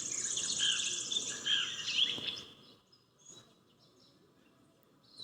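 Small birds chirping and twittering, with a fast high trill over them, for about the first two and a half seconds, then near silence.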